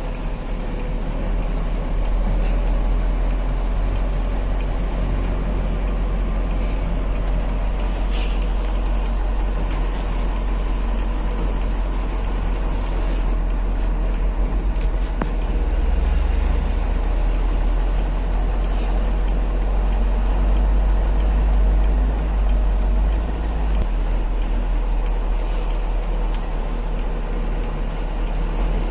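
Heavy truck driving under way: the engine and road noise make a steady low rumble that grows a little louder for a few seconds past the middle.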